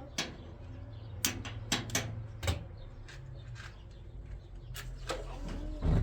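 Irregular sharp clicks and knocks, about a dozen, over a low steady hum, with a heavier knock near the end.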